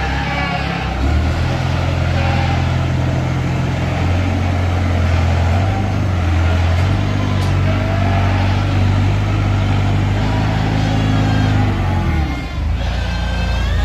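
Farm machine engine running under load, its pitch rising and falling as the revs change, with a short dip about three-quarters of the way through.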